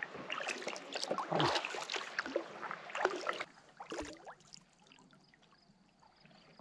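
Kayak paddling: water splashing and dripping off the paddle blades with each stroke. It dies away about three and a half seconds in, followed by a single knock.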